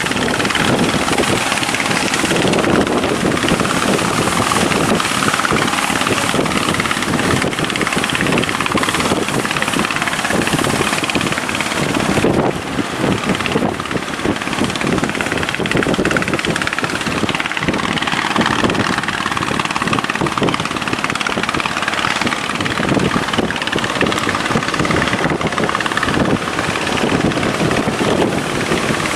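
Fishing boat engines running hard and steady as the boats push out through heavy surf, a loud, rough noise with a brief dip about twelve seconds in.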